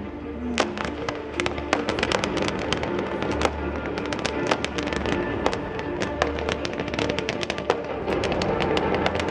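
Fireworks display: a dense, continuous run of sharp crackling bursts, many reports a second, with music playing underneath.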